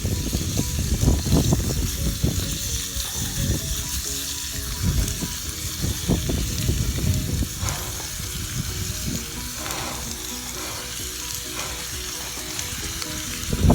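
Steak sizzling in a Dutch oven over a campfire: a steady hiss of frying with irregular low knocks.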